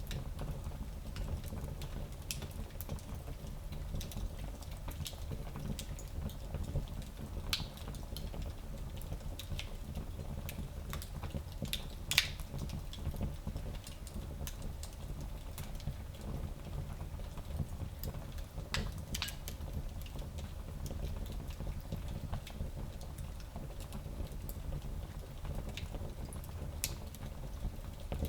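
Fire crackling in a small fireplace: scattered sharp pops and snaps, the loudest about twelve seconds in, over a steady low rumble.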